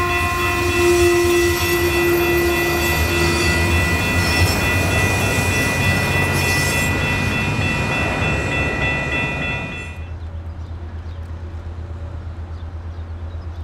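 Siemens Desiro diesel multiple-unit train passing, with engine rumble and rail noise and several steady high-pitched tones held over it. About ten seconds in it cuts off suddenly, leaving a quieter low background hum.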